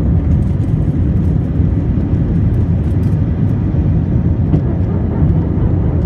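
Steady, loud rumble of a jet airliner's engines at take-off power, heard from inside the passenger cabin, with a few faint rattles.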